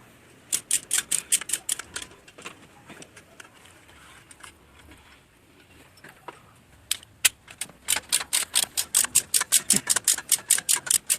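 Ratchet head of a torque wrench with a 12 mm socket clicking rapidly, about six clicks a second, as it is swung back and forth loosening cylinder head bolts. A short run of clicks comes near the start, a few scattered ones follow, and a longer run fills the second half.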